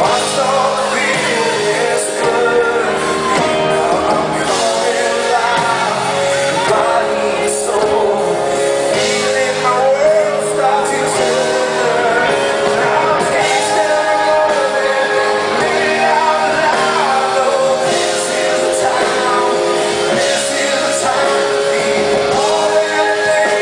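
Live rock concert music with singing, continuing steadily.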